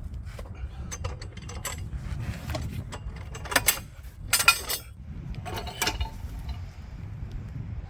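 Metal tools clicking and clanking as they are handled, with three louder rattling bursts about three and a half, four and a half and six seconds in, over a steady low rumble.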